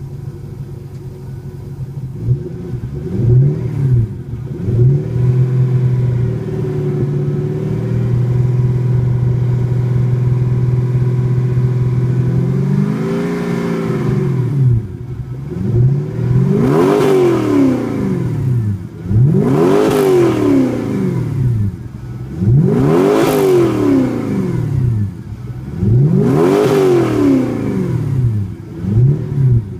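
An engine holding a steady note, then revved up and down over and over, about every three seconds, with a hiss at the top of each rev.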